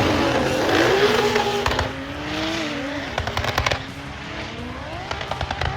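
Drag race car accelerating away down the strip and fading. The engine's pitch climbs and drops several times as it shifts gears, with bursts of rapid crackling pops from the exhaust.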